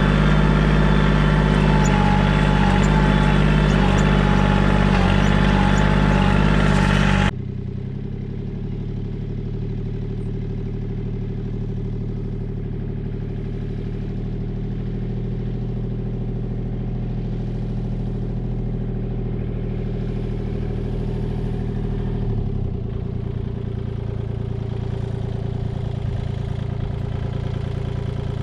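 Compact Kubota diesel tractor engine running steadily, loud at first, then abruptly quieter and lower after about seven seconds.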